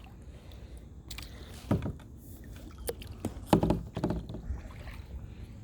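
Small boat on a lake: a steady low rumble of water and wind with a few sharp knocks, the loudest about halfway through.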